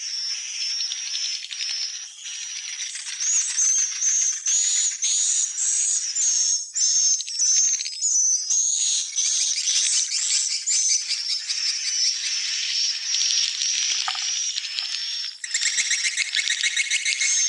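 Swiftlets calling: a dense, continuous chatter of high chirps and short whistled glides over a buzzy rattle, becoming a louder, faster rattling trill about 15 seconds in.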